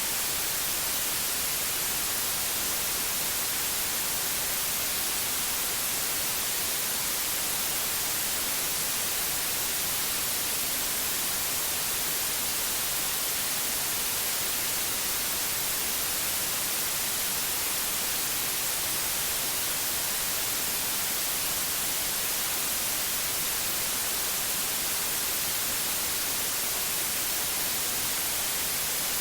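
Pure white noise: an even, unbroken hiss, strongest in the highs, with no other sound.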